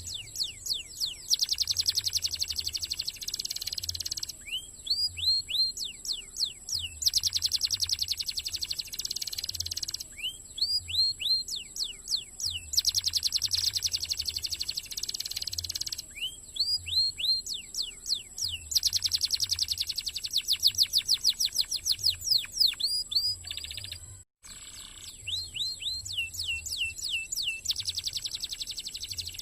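Domestic canary singing a fast, dense song: rapid trills alternating with runs of repeated swooping notes. The song breaks off for an instant about 24 seconds in and then carries on.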